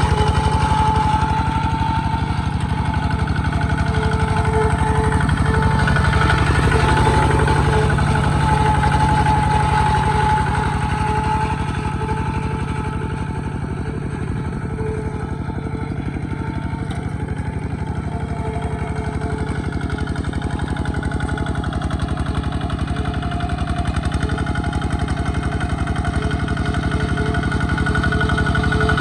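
Small tractor engine running steadily, easing off a little midway and building up again near the end.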